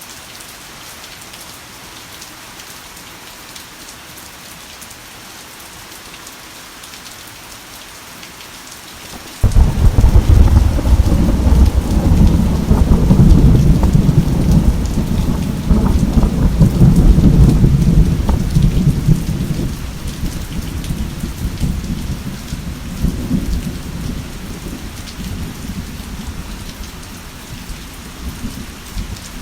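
Heavy rain falling steadily. About nine seconds in, a sudden loud clap of thunder breaks into a deep rumble that rolls on for about ten seconds, then slowly fades under the rain.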